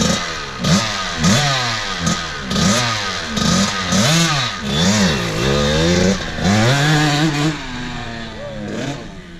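Motorcycle engine being revved in short, quick blips, its pitch rising and falling more than once a second, then held higher for a moment before easing off near the end.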